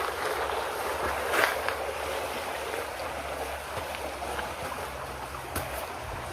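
Rio Cobre river water rushing steadily, with a few brief splashy ticks about a second and a half in and near the end.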